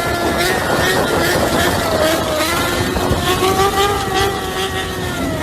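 Motorcycle engine running, its note wavering, dipping about halfway through and then climbing again as the throttle changes.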